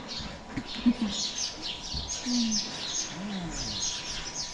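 Small birds chirping rapidly and continuously, quick falling high-pitched chirps, with a few short low voice-like sounds in between.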